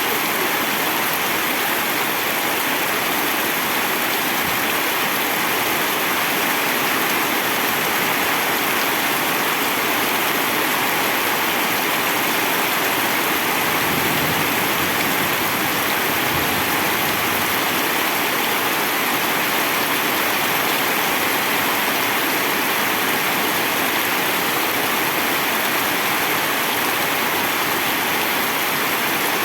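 Heavy rain falling in a steady downpour, an even continuous hiss.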